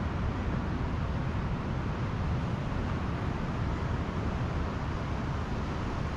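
Pacific Ocean surf washing on a beach: a steady, even rushing noise.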